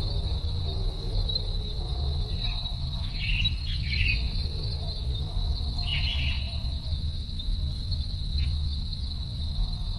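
Steady high-pitched insect trill, like a cricket, running without a break, with a few short chirps over it, near the middle and again later, and a low rumble underneath.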